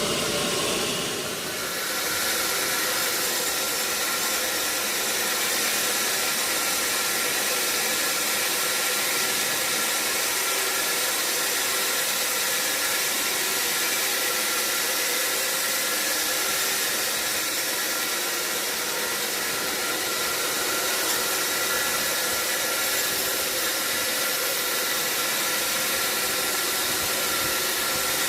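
Sawmill saw running steadily through a log: a loud, even hiss and whine with faint steady tones, no break in the cut.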